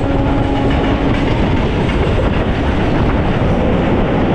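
Railway train running along the track, a loud steady rumble.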